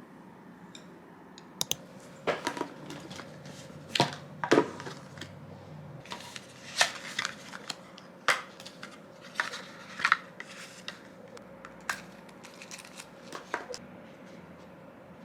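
Objects being handled: a series of irregular light clicks and knocks, starting about a second and a half in, with the loudest pair of knocks about four seconds in. A few of the knocks ring briefly.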